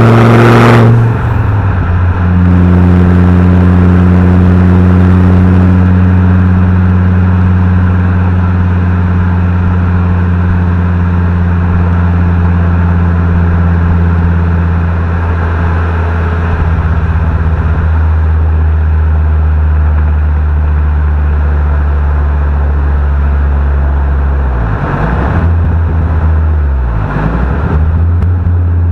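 Fiat Coupe 20V turbo's turbocharged inline five-cylinder engine and exhaust, pulling hard for about a second and then dropping in pitch. It then runs at a steady low note, dipping briefly twice near the end as the revs change.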